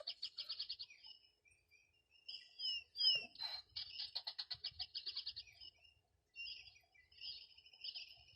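A songbird singing repeated phrases, each made of two or three quick down-slurred whistles followed by a fast, even trill lasting about two seconds. One phrase ends about a second in, a second runs from about two to six seconds, and a third, softer phrase begins near the end.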